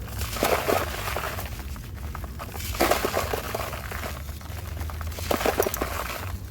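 Dry, crunchy material being crumbled by hand: three short bursts of crisp crunching and crackling, about two and a half seconds apart, over a faint steady low hum.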